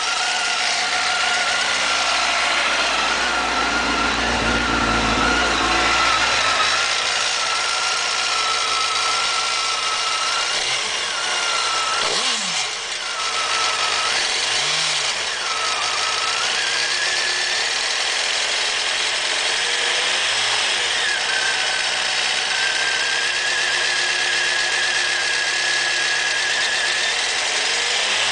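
2000 Honda CBR929RR motorcycle's inline-four engine running, with a steady high whine over the idle. A few short blips of the throttle come in the middle. The whine is a likely candidate for the weird noise being shown, but nothing names it.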